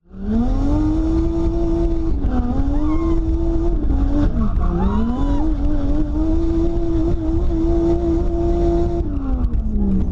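Drift car's engine heard from inside the cabin, revving up quickly and held at high revs, with two brief dips in pitch about two and four and a half seconds in, then winding down near the end.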